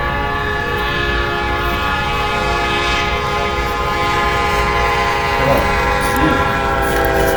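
Locomotive air horn held in one long, steady multi-note blast over the low rumble of a moving train.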